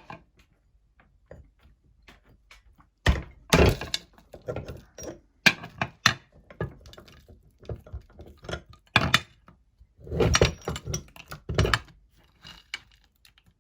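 Meat grinder crushing hard candy: irregular crunches and sharp cracks in clusters with short pauses between them.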